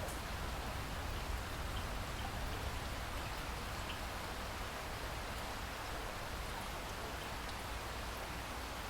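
Steady rain falling: an even hiss with a few faint drop ticks, over a low rumble underneath.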